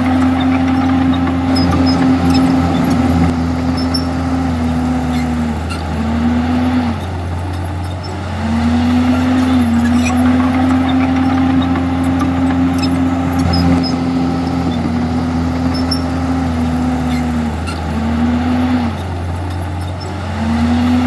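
Komatsu D51EX crawler bulldozer's diesel engine running hard under load. Its note holds steady, then sags twice and picks up again, about a third of the way in and again near the end.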